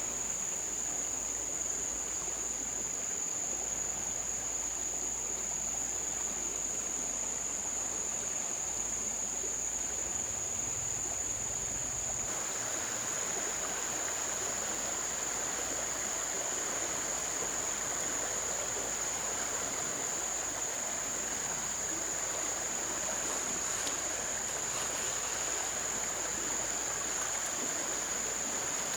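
Steady rush of flowing river water, growing a little fuller about twelve seconds in, under a continuous high-pitched tone.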